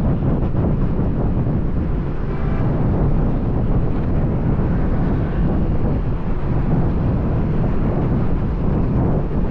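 Steady low rumble of wind buffeting the microphone on a moving motorbike, mixed with the bike's road and traffic noise.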